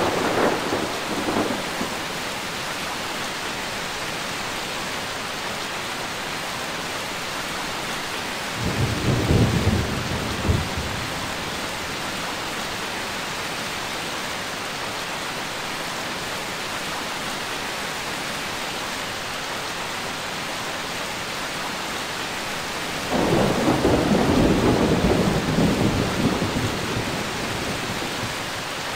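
Thunderstorm: steady rain with rolling thunder. A rumble fades in the first couple of seconds, another comes about nine seconds in and ends in a sharp crack, and a longer, louder roll starts about 23 seconds in and dies away over several seconds.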